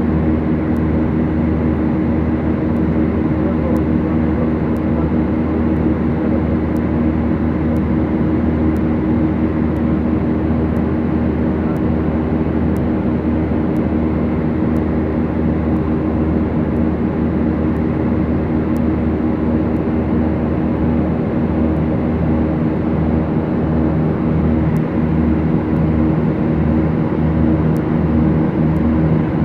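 Steady drone of a Beechcraft Duchess's twin four-cylinder Lycoming engines and propellers running at a constant power setting. A slow low pulsing comes into the drone during the last several seconds.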